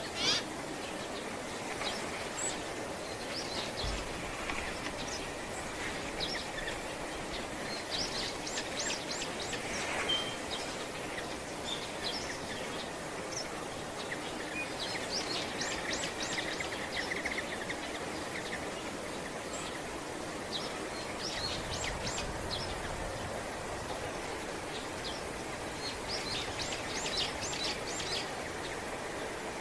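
Small birds calling: short bursts of rapid, high, clipped notes that come again every few seconds, over a steady background hiss.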